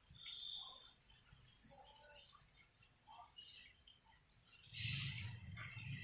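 Small birds chirping in short, high-pitched bursts, with a quick run of repeated high notes about a second and a half in.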